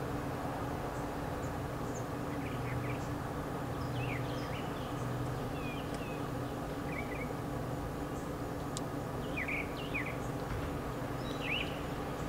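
Wild birds chirping in short, scattered calls over a steady low background hum.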